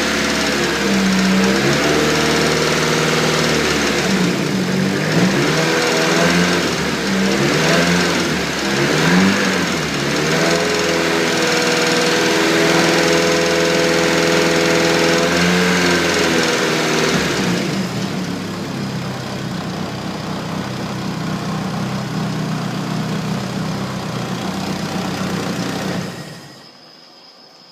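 Nissan SR20DET four-cylinder turbo engine running, revved up and down several times, then settling to a steadier idle before it is switched off near the end. It carries a tick that sounds like a hydraulic lifter tick and persists even though the lifters have been bled twice; HKS 264 cams are fitted and the VVT has been removed.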